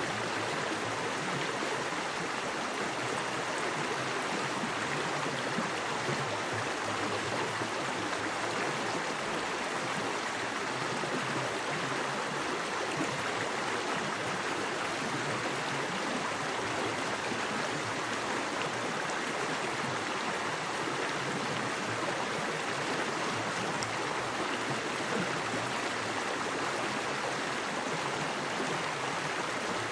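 Small woodland creek with fast water running over rocks, a steady rushing splash.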